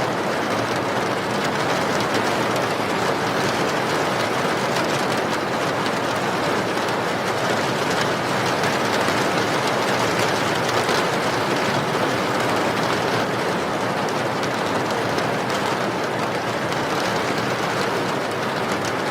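Steady rain falling: an even hiss with faint ticks of individual drops.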